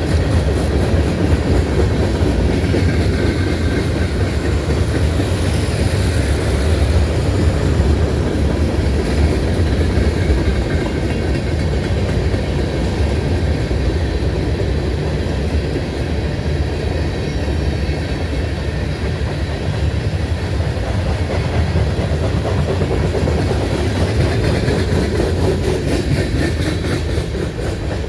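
Freight train rolling past, its railcars' steel wheels clattering steadily over the rail joints.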